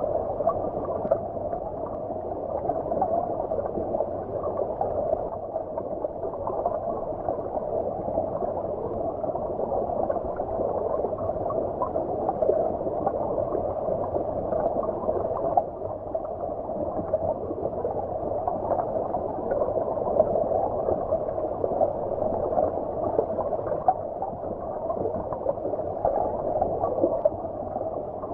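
Stream water heard underwater: a steady, muffled bubbling and gurgling with no high, splashy sound and small irregular pops throughout.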